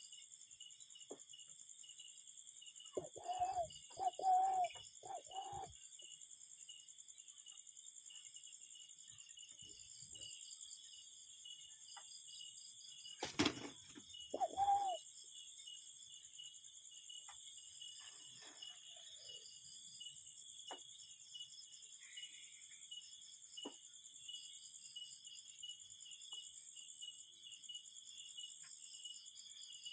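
Cuckoo calling: a run of four hooting notes about three seconds in and one more a little after the middle, over insects shrilling steadily. A sharp click comes just before the last call.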